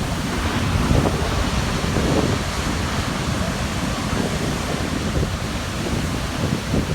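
Heavy Atlantic surf crashing and churning against a rocky shore, a continuous deep rumbling wash with surges about a second and two seconds in. Wind buffets the microphone throughout.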